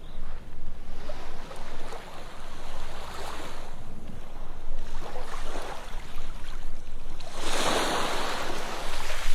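Ocean waves washing onto a sandy beach, with a bigger wave surging in about three-quarters of the way through.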